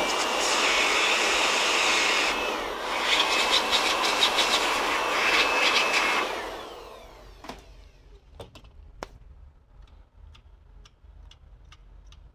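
Air blower blasting air through a laptop's cooling fan: a loud rush of air with a high whine, dipping briefly about two seconds in, then switched off about six seconds in and dying away. A few light clicks follow.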